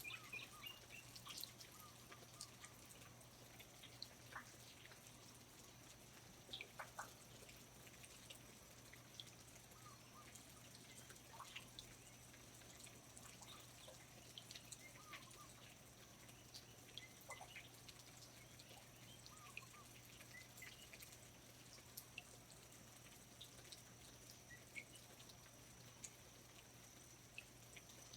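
Faint rainforest ambience: water dripping irregularly from foliage, with a few faint short bird chirps and a steady high thin hum underneath.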